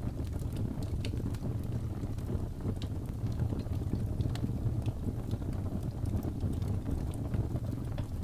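Fireplace fire burning: a steady low rumble of flames with scattered small crackles and pops throughout.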